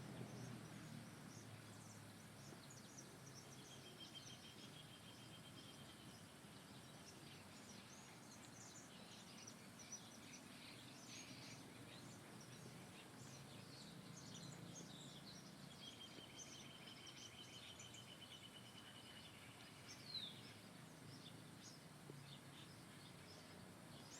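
Faint birdsong: scattered short high chirps from several birds, with two long, even trills at a steady pitch and a quick falling note near the end.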